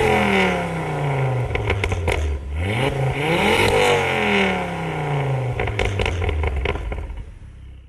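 Car engine revved twice: each time the pitch climbs quickly, then sinks slowly as the revs drop away, with a few sharp crackles in between. The sound fades out near the end.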